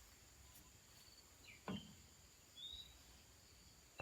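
Near silence, with a faint short rising bird call near the end and a single soft knock a little before the middle.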